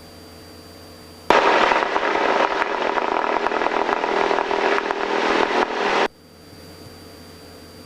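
A burst of crackling radio static on the aircraft's radio/headset audio, an open-mic transmission with no words. It starts suddenly about a second in and cuts off abruptly about five seconds later.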